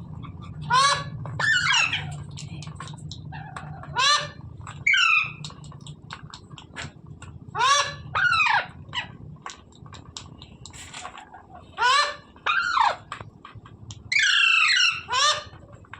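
Rose-ringed parakeet (Indian green parrot) giving loud, harsh calls, about ten of them, mostly in pairs about a second apart, with a longer call near the end. A steady low hum runs underneath.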